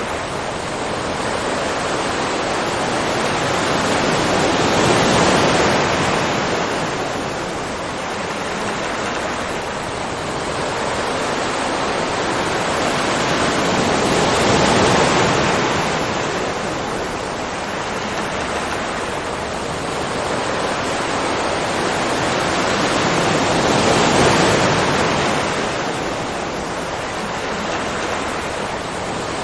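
Ocean surf: waves washing in and falling back in a steady hiss that swells three times, about every ten seconds.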